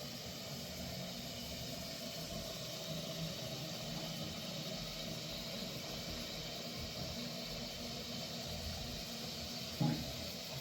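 Steady hissing noise, with one short thump about ten seconds in.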